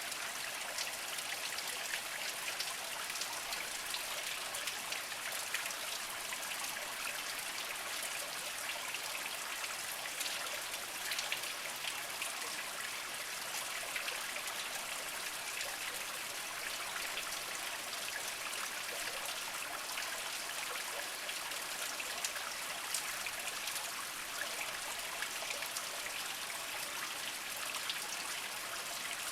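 Small spring trickling and splashing over mossy rocks: a steady light babble with many fine drips and splashes.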